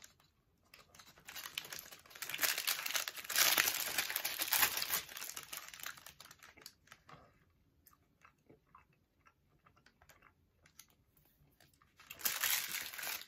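A person biting and chewing Sour Punch chewy sour candy sticks close to the microphone. The chewing is loudest in the first few seconds, then thins to faint scattered clicks from about six seconds in.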